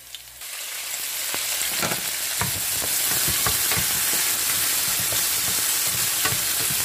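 Green onions, yellow pepper and cherry tomatoes hitting hot oil in a frying pan. A steady sizzle starts about half a second in and builds, with a wooden spatula knocking and scraping against the pan as it stirs them.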